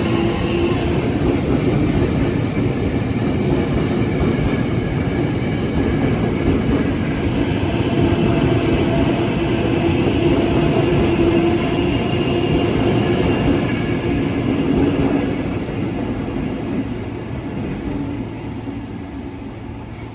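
Ex-Tokyo Metro Chiyoda Line electric commuter train running through the station: a dense rail rumble with a steady whine over it, fading away over the last few seconds.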